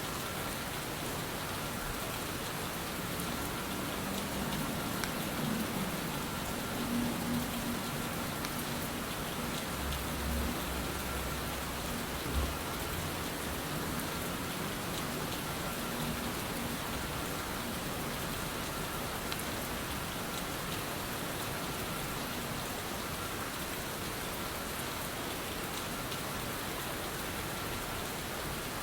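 Steady rain from a background rain track, an even patter of drops throughout. A few soft, low bumps come in the first half.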